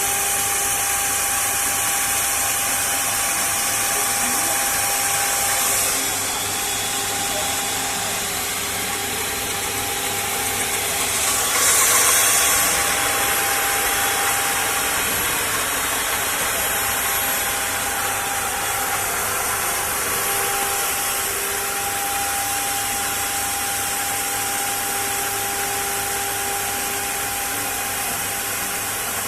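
9 kW spindle of a four-axis CNC router running, a steady high whine over a wide machine hiss, with a brief louder hiss about twelve seconds in.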